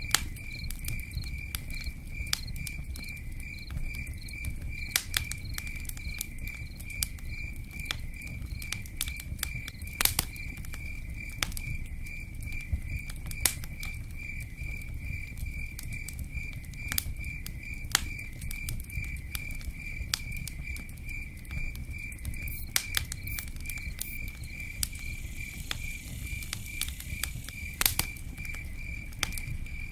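Campfire crackling with scattered sharp pops, over a steady low patter of rain. A cricket chirps at one pitch about twice a second.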